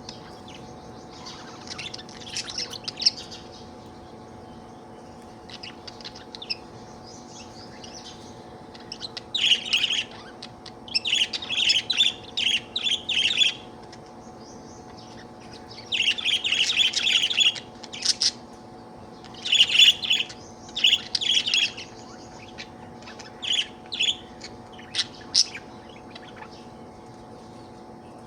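Budgerigar chirping and warbling in bursts of quick, high chirps with short pauses between. A steady low hum runs underneath.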